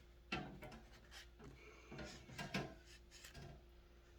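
Light knocks and rubbing from wooden kit parts being handled and glue being spread, a few short bumps with the loudest about halfway through.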